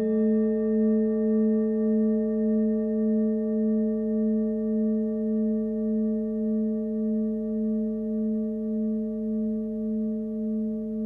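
Forged Nepalese singing bowl, the 18.5 cm bowl tuned to the note A (about 218 Hz), ringing out after a single strike. Its tone slowly fades, with a steady wavering pulse in loudness.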